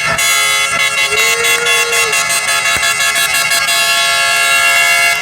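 A boat's air horn sounding one long, steady blast that cuts off sharply near the end.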